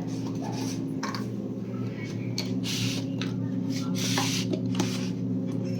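Packaging rustling and crinkling as it is handled, with a few light clicks and two short hissy rustles, over a steady low hum.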